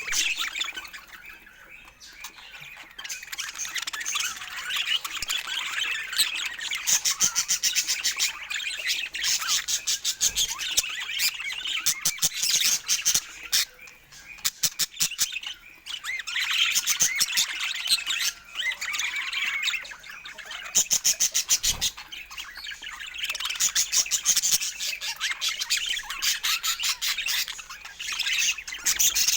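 Budgerigars chattering: a busy, continuous warble of high chirps, squawks and rapid clicks, with a few brief lulls.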